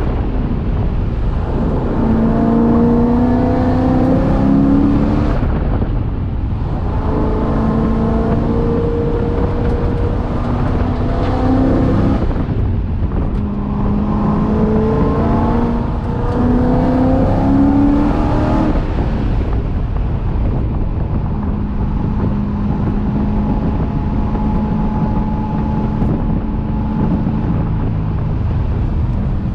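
C6 Corvette race car's V8 engine heard from inside the car at speed: several hard pulls with the pitch climbing, each broken by a brief lift off the throttle, then a steadier note near the end, over heavy road and wind noise.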